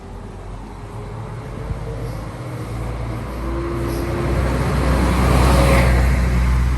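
A bus driving past close by: its engine rumbles and its tyres hiss, growing louder to a peak about five to six seconds in, then starting to fade.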